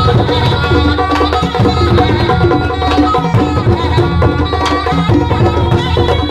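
Thai traditional music accompanying a nang yai shadow-puppet performance: drums keep a continuous beat under short, quickly changing notes from tuned percussion.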